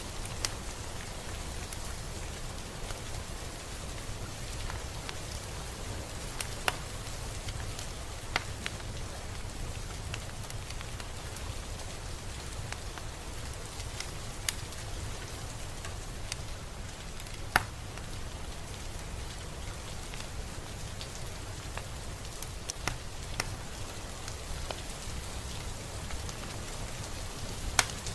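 Steady rain falling, with a single drop now and then striking close by as a sharp, louder tick.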